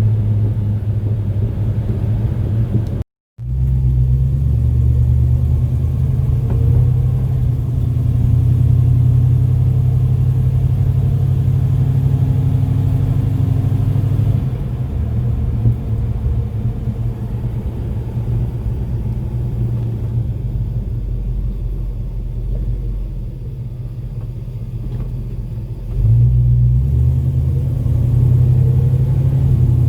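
Crate 350 small-block V8 of a 1948 Chevrolet Fleetmaster street rod running with a steady low rumble. The sound cuts out for a moment about three seconds in. It gets quieter around the middle and steps up louder again near the end.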